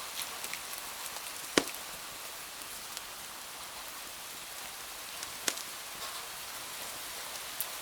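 Steady rain hiss with scattered light ticks of drops. Two sharp pops cut through it, a loud one about a second and a half in and a smaller one about five and a half seconds in.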